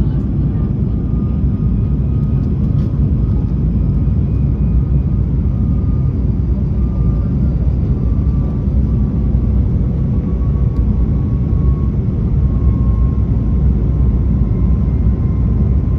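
Cabin noise inside an Airbus A220-300 in flight: the steady rumble of its Pratt & Whitney PW1500G geared turbofans and rushing air, with a faint thin whine that sinks slightly in pitch.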